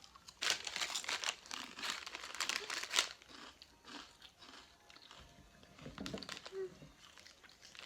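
Crinkling and crunching of plastic snack packaging being handled, in quick clusters for about three seconds, then fainter rustles.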